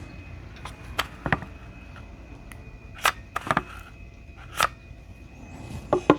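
A series of sharp clicks and knocks, about seven in all at uneven spacing with a close pair near the end, from hands-on work on an 18650 lithium-ion e-bike battery pack, with a faint steady high whine underneath.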